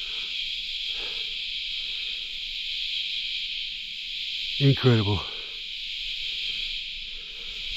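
Steady, high-pitched chorus of insects that drones without a break.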